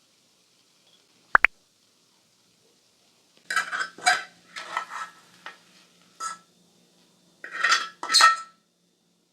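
Dishes and cutlery clinking and clattering: one sharp ringing clink about a second in, then bursts of clatter from about three and a half seconds on, the loudest near the end.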